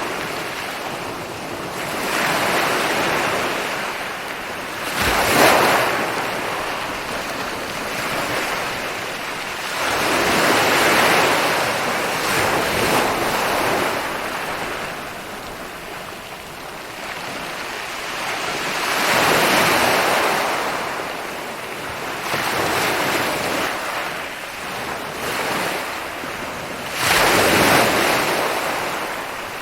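Ocean waves rolling in and breaking on a beach, a wash of surf that swells and ebbs every few seconds. Two louder waves crash in sharply, about five seconds in and near the end.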